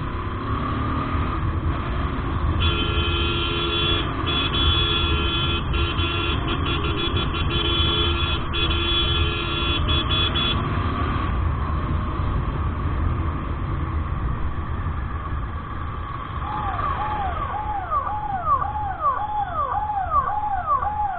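Street traffic heard from a moving motorcycle: a steady low engine and road rumble, with a vehicle horn blaring, stuttering briefly, for about eight seconds. Later a repeating warbling electronic tone starts, rising and falling about twice a second.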